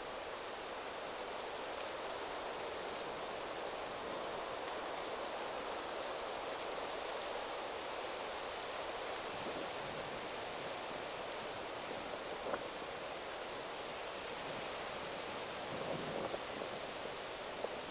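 Wind rustling through forest trees, a steady rushing noise. A couple of faint high chirps and a few small clicks come in the second half.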